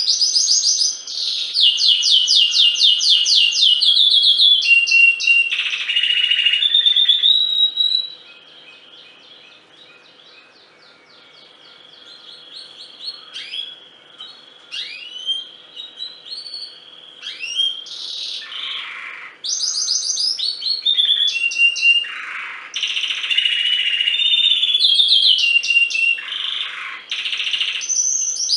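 Domestic canary singing: loud, fast trills and rolling phrases. About eight seconds in it drops to soft, scattered chirps, then breaks back into loud trilled song a little past halfway.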